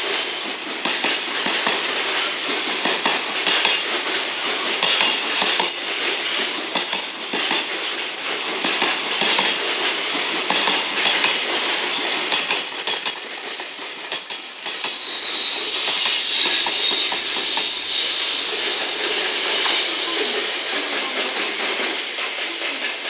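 Container wagons of a long freight train rolling past at close range: a steady rumble with repeated clickety-clack of wheels over rail joints. About fifteen seconds in, a louder, hissier stretch comes as the rear banking locomotive, an EF210 electric, passes and pushes at the tail. It fades as the train moves away near the end.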